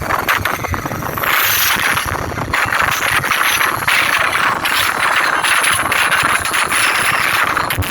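Loud, harsh noise effect blaring from a large outdoor DJ sound-box system, with no steady beat and a few gliding sweeps high up.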